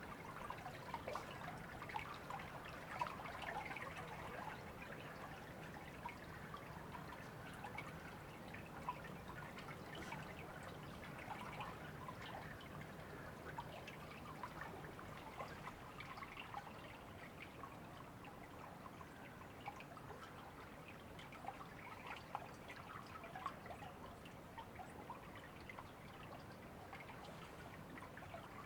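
A river flowing steadily, its water trickling and babbling.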